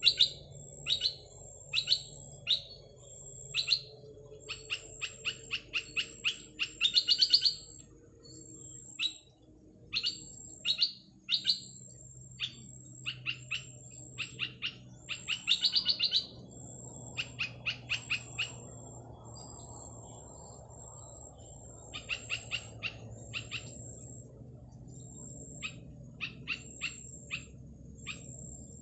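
Small bird, the one called petpet in Malay, giving sharp, high chirps one after another, with quick runs of notes and two fast rattling series about 7 and 16 seconds in.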